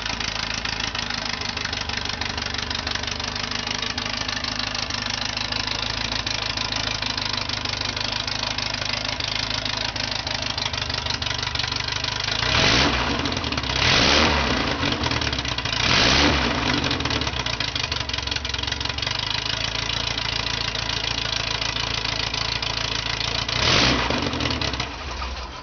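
Air-cooled 1776cc Volkswagen Beetle flat-four engine idling steadily on its first startup, blipped four times: three quick revs about halfway through and one more near the end. The engine is shut off at the very end.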